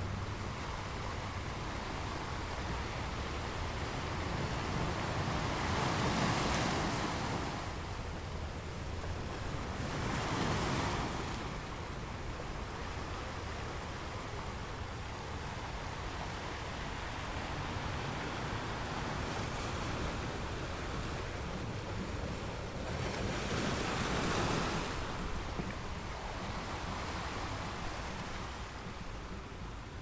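Surf on a beach: a steady wash of small waves that swells louder three times as waves break and run in.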